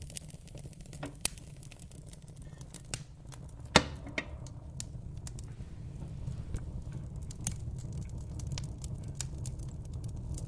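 Wood fire in a fireplace crackling, with irregular sharp pops over a steady low rumble of the flames; one loud pop comes a little under four seconds in.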